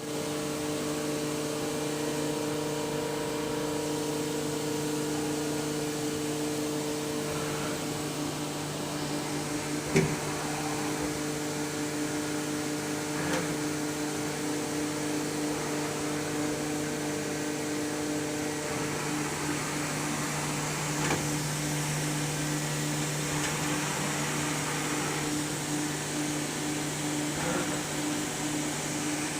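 Heller MC16 CNC horizontal machining center running, a steady mechanical whir with several steady hum tones, the highest of which stops a little past halfway. A few sharp knocks break through, the loudest about ten seconds in.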